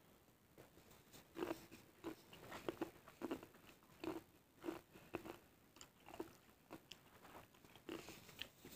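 Close chewing of crunchy cassava chili crackers (kerupuk cabe), soft crunches coming about twice a second.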